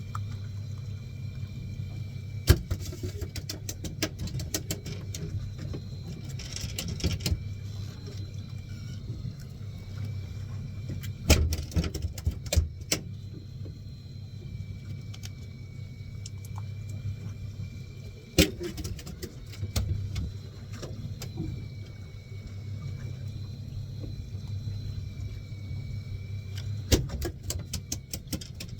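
Fishing boat's engine running steadily with a faint, wavering high whine over it. Clusters of sharp clatters and knocks come and go, loudest about two seconds in, around eleven to thirteen seconds, about eighteen seconds in, and near the end.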